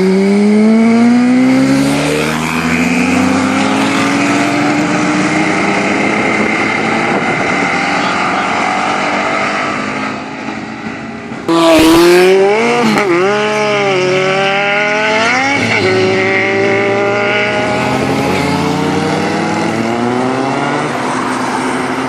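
High-performance vehicle engines accelerating hard, the pitch climbing as they pull away. About halfway through there is a sudden loud crack, then an engine is revved up and down several times before pulling away again with rising pitch.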